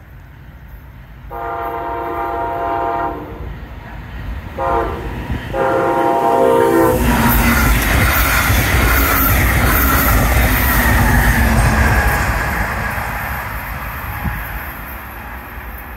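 Brightline passenger train's horn sounding a long, a short and a long blast, the end of a grade-crossing signal, as the train approaches. The train then rushes past loud, with a heavy rumble and rail noise, for about five seconds before fading away.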